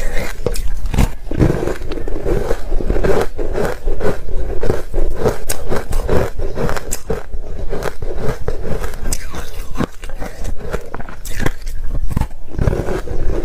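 Close-miked chewing of soft, crunchy ice coated in matcha powder, a dense run of irregular crunches and crackles.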